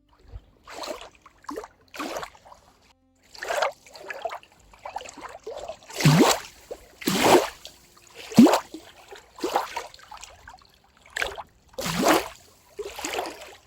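Water splashing and sloshing in a run of irregular bursts, roughly one a second, a few with a short low plunk.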